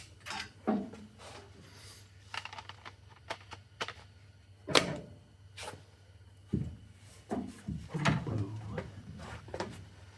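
Scattered knocks, clunks and clicks of tools and metal being handled, the sharpest knock about five seconds in, over a steady low hum.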